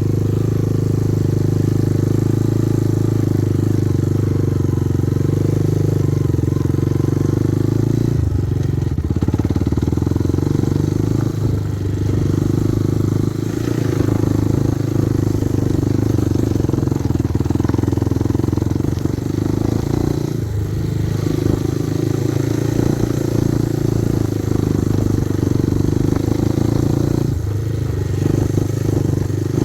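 Kovi Advance 250 enduro motorcycle's engine running steadily while riding, its note dipping briefly about five times.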